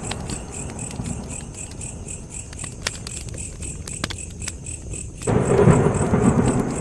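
Wood fire crackling with a few sharp pops, over a steady rhythmic chirping of crickets. A low rumble fades and then returns suddenly about five seconds in.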